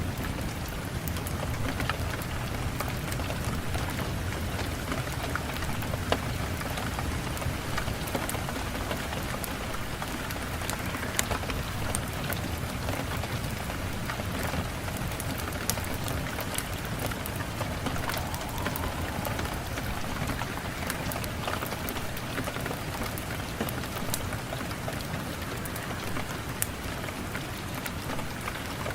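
Steady rain falling, with scattered sharp ticks and pops throughout.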